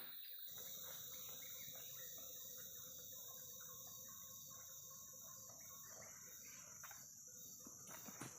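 Faint forest ambience: insects droning steadily at a high pitch, a second one joining about half a second in, with many short bird chirps scattered through.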